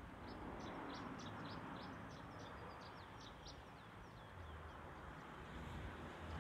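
A small songbird singing a rapid run of short, high chirps for the first few seconds over a steady outdoor background hiss. A low steady rumble starts about two-thirds of the way in and grows toward the end.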